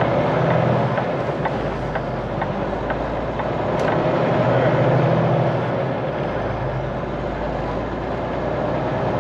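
Semi truck's Cummins X15 diesel engine pulling at low speed through a tight turn, a steady drone that swells slightly near the start and again about five seconds in.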